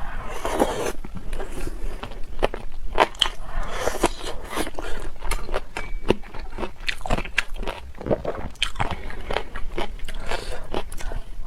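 A person biting and chewing crunchy food close to the microphone: irregular sharp crunches and mouth clicks.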